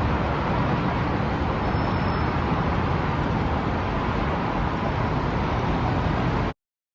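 Amtrak Hiawatha passenger train going by: a steady rumble of wheels on rails and rushing air, which cuts off suddenly near the end.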